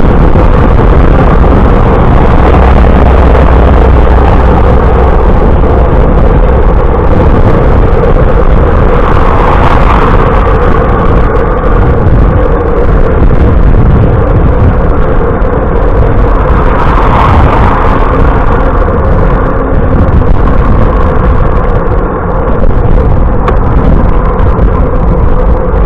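Loud, steady wind rumble buffeting the microphone of a camera carried on a moving bicycle, with two brief swells about ten and seventeen seconds in.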